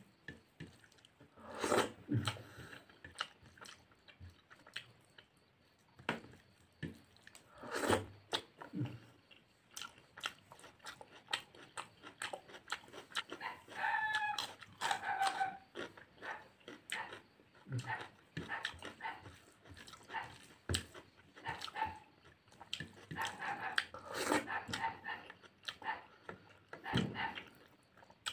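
Close-up eating sounds of a man eating rice and fish curry by hand: repeated wet chewing and lip-smacking clicks, louder in a few clusters. About halfway through there is a brief high-pitched sound with a clear tone.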